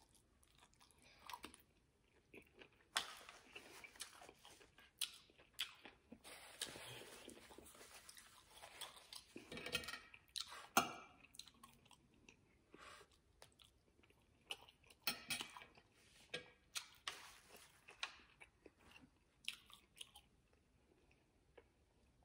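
Faint, close-miked chewing and crunching of vegetables such as asparagus and broccoli, with many short sharp clicks scattered throughout.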